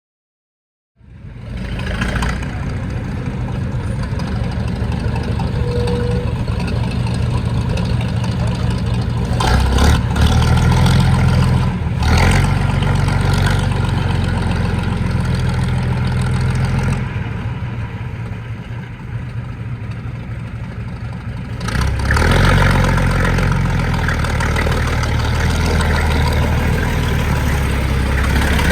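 Old fire engine's engine running at a steady idle, starting about a second in, picking up revs a couple of times and easing off for a few seconds in between.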